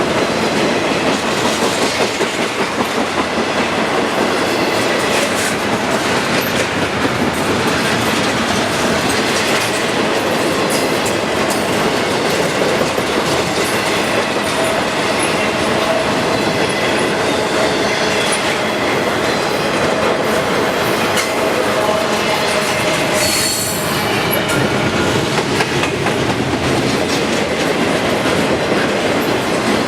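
Intermodal freight train rolling past: a steady rumble of wheels on rail, with clickety-clack over the rail joints and a faint high wheel squeal.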